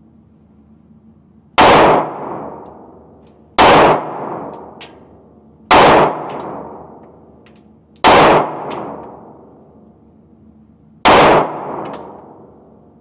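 Five handgun shots fired at an uneven pace, two to three seconds apart, each followed by a long echoing tail.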